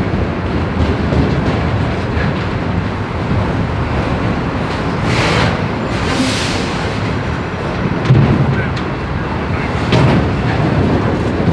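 A train passing close by: a loud, steady rumble of wheels and cars on the rails, with a brief hiss about five seconds in and a couple of heavier thumps near the end.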